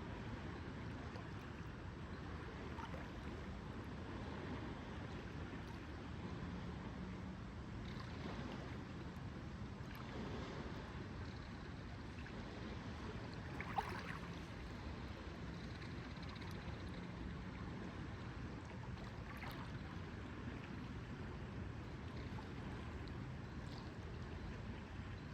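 Lake water lapping steadily, with a single sharp knock about fourteen seconds in.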